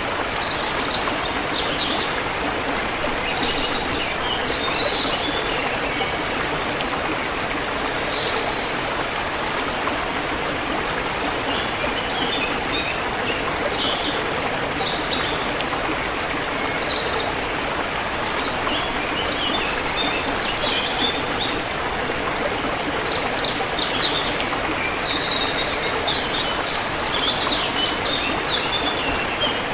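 A forest river or stream flowing with a steady rush, while small birds chirp and twitter throughout.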